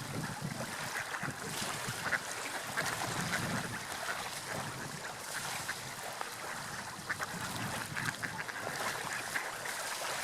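Water lapping and washing in small waves, with a steady rush and many short splashing sounds.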